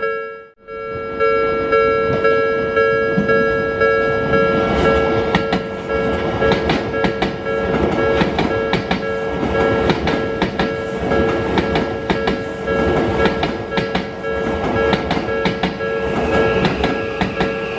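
Level-crossing warning bells ringing steadily as an Odakyu 5000-series train passes, its wheels clicking over the rail joints in quick, uneven beats from about four seconds in. Near the end a motor whine falls in pitch.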